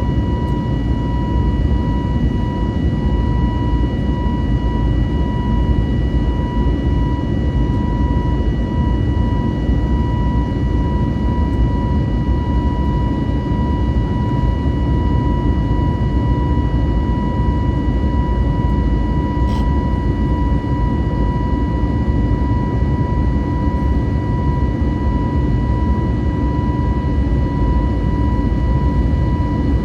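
Inside the cabin of an Airbus A320neo with CFM LEAP-1A engines under power: a steady low rumble and rush of air with a constant high engine whine. A faint tick about two-thirds of the way through.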